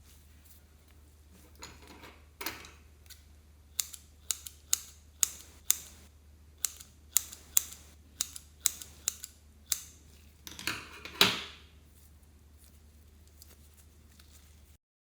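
Slime being pressed and stretched by hand, trapped air popping with sharp clicks about two a second, then a longer, louder crackling squelch near the end. A faint low hum runs underneath.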